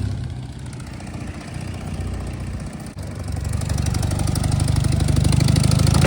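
1938 BMW R71's air-cooled side-valve flat-twin engine running with a steady low beat, quieter for the first few seconds, dipping briefly near the middle, then running louder from about halfway.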